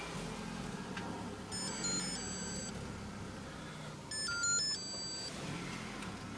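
Car engine running steadily with a low hum. Twice, about a second and a half in and again about four seconds in, a short run of high electronic beeps steps up and down in pitch.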